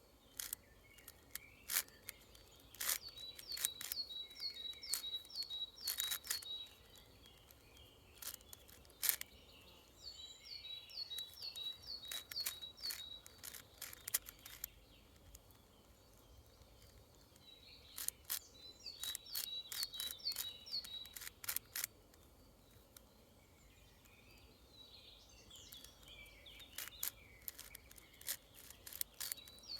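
A 6x6 twisty puzzle cube being turned in rapid bursts: quick plastic clicks and scrapes as its layers snap around, pausing for a few seconds between bursts.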